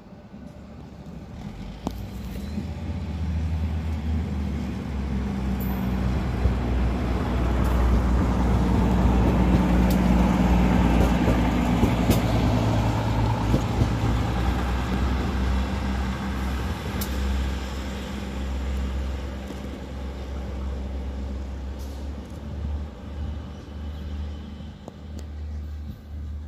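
Diesel multiple-unit railcar train passing by: its engine drone and wheel-on-rail noise build up over the first few seconds, are loudest as it goes past, then fade as it pulls away, with a few sharp clicks along the way.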